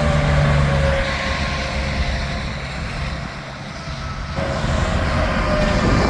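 Highway traffic passing: a truck's engine hum and tyre noise are loud at first and fade away. More vehicles approach and build again about four seconds in.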